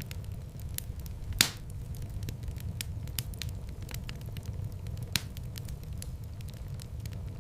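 Wood fire burning in a fireplace: a steady low rumble of flames with frequent small crackles, and a sharp loud pop about a second and a half in, with another pop near five seconds.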